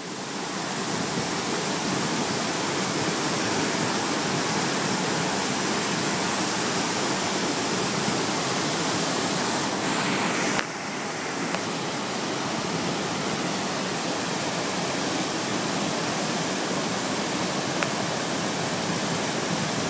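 Waterfall rushing: a steady, dense roar of falling water, dipping slightly in level about ten and a half seconds in.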